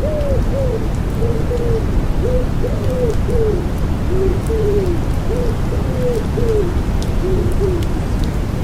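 Common wood pigeon cooing: a run of soft, short notes, each rising and falling, in repeated phrases that stop shortly before the end. Underneath is a steady white-noise rush strongest in the low end, with faint raindrop ticks.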